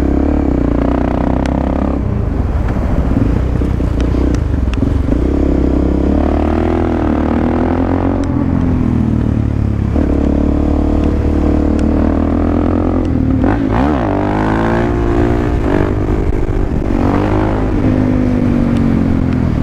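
Suzuki DR-Z400SM supermoto's single-cylinder four-stroke engine running under way, its pitch rising and falling as the throttle is opened and closed, with one quick rise and drop of revs about fourteen seconds in.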